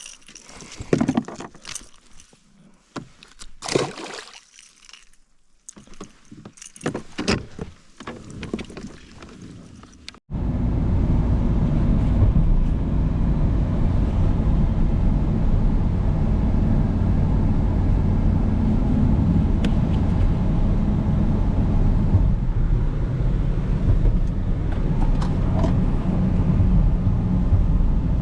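Scattered clicks and rustles of handling for about ten seconds, then an abrupt cut to a steady, loud, low rumble.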